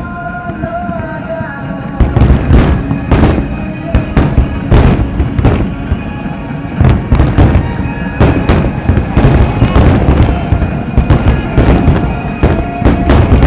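Large fireworks shells bursting one after another, often several a second, over music playing in the background.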